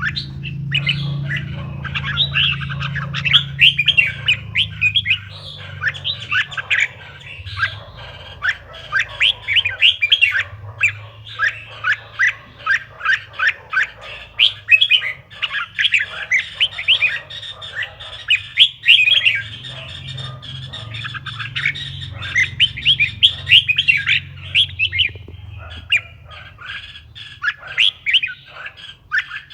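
Red-whiskered bulbul singing: fast, dense runs of chirping notes, with brief lulls, over a faint low hum.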